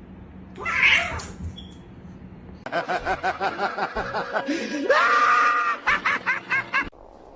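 Cat calling loudly: after a short noisy burst comes a fast run of short meows, about five a second, then one longer rising call, then more short calls that stop abruptly.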